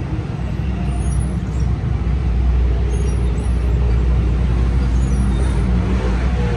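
Steady low rumble of a running engine or motor, getting a little louder about two seconds in.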